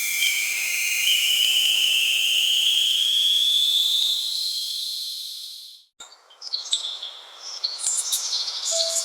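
A high, steady insect-like hiss carrying a clear whistling tone that rises slowly in pitch, fading out about six seconds in. After a sudden break come scattered clicks and short chirps, and bell-like music notes begin near the end.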